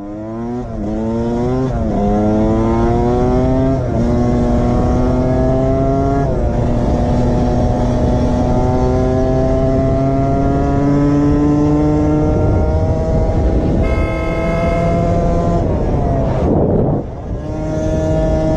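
Motorcycle engine accelerating hard through several quick gear changes, then a long, steady climb in revs at speed. A steady high tone sounds for about two seconds near the end.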